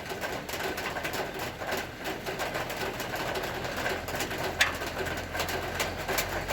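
Rain falling, heard as a steady patter of drips and taps, with one sharper tap a little after halfway.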